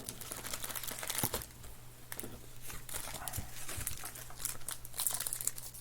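Foil trading-card pack wrappers being torn open and crumpled by hand, an irregular run of crinkling and crackling with short sharp rustles. A faint steady low hum runs underneath.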